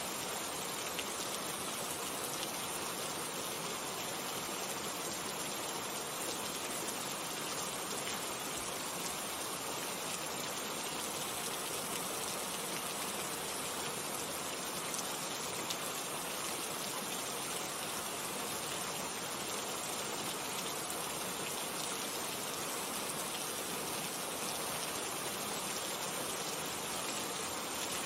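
Steady rain falling, an even patter of drops on a surface.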